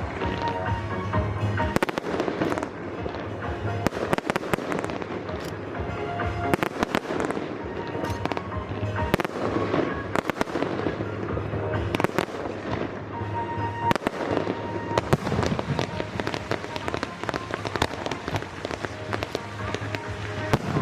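Fireworks display: a continuous run of sharp bangs and crackling bursts, with music playing underneath.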